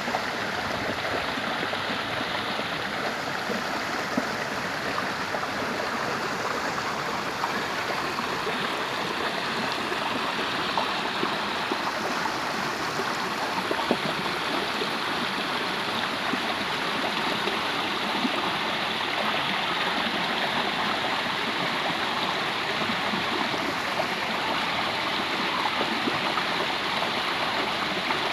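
Stream water running steadily over rocks, a continuous rushing with small gurgling splashes.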